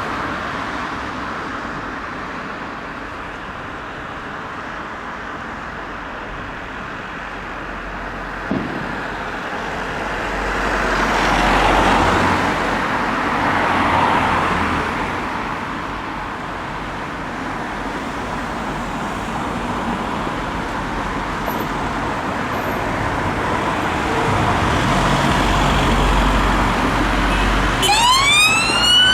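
Road traffic noise from passing vehicles, swelling and fading, with a short sharp knock about eight seconds in. Near the end a police car's siren starts up, its pitch sweeping upward.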